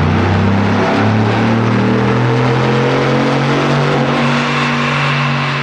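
GM Silverado/Sierra 1500 5.3L V8 with a Flowmaster Outlaw Extreme stainless cat-back exhaust, pulling under throttle. The revs step up about a second in and then hold fairly steady with a slight climb.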